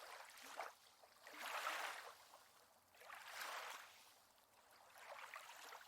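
Faint, gentle lake water sounds, rising and falling in soft swells a couple of seconds apart.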